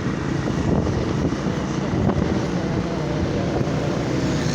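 Motorcycle engine running steadily while riding, with wind blowing on the microphone.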